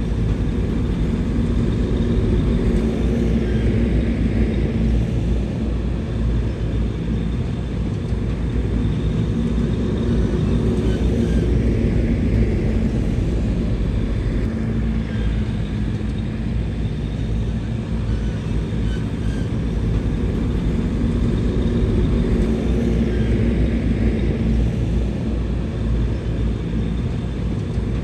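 Heavy diesel engine of a bulldozer running steadily under load, its level rising and falling a little.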